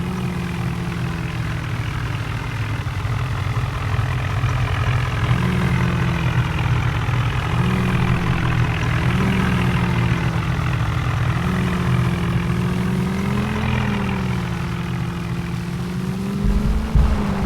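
Tractor engine running, its pitch rising and falling gently every second or two as the revs vary. A short, louder low rumble comes near the end.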